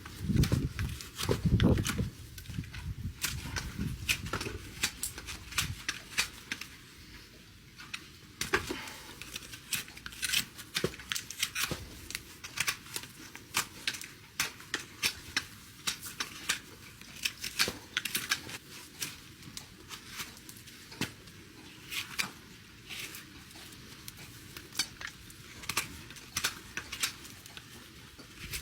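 Hoof nippers cutting an overgrown horse hoof: many sharp, irregular snips and cracks, with low thuds in the first couple of seconds.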